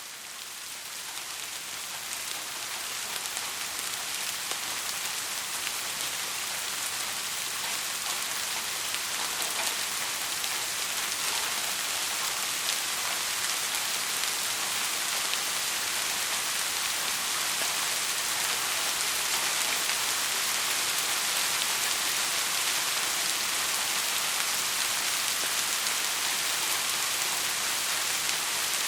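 Heavy rain falling steadily, a dense hiss of many drops, fading in over the first few seconds and then holding even.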